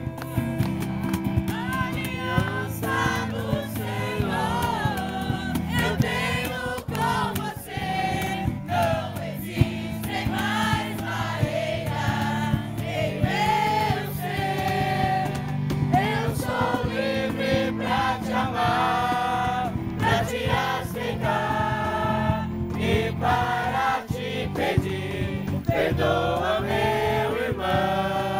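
Group of voices singing a Portuguese gospel worship song together over a steady instrumental accompaniment.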